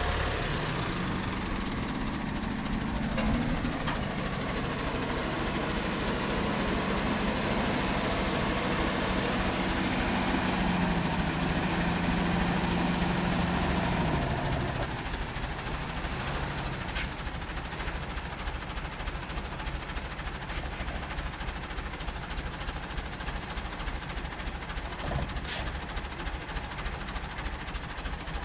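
A farm tractor's engine running steadily. About 14 seconds in its pitch and level drop and it carries on more quietly, with a couple of sharp clicks later on.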